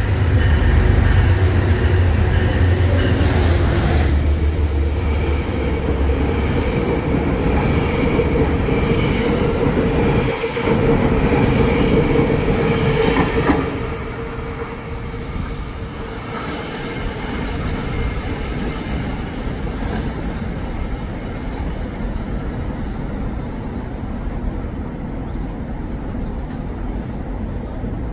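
A Metro-North locomotive-hauled train of Shoreliner coaches going by close at hand: a heavy low rumble as the locomotive passes, then the coaches' wheels clattering over the rails with a brief metallic scrape a few seconds in. About fourteen seconds in the sound drops to a quieter, steady rumble.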